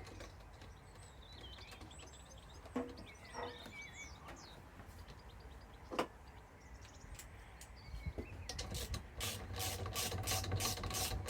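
Clicks and knocks of tumble dryer parts being handled and reconnected, with one sharp click about midway, then near the end a quick run of ratchet-like clicks about four a second.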